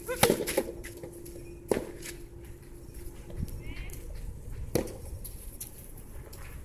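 Soft tennis rally: three sharp pops of rackets striking the soft rubber ball, a second or more apart, over a low rumble of strong wind on the microphone.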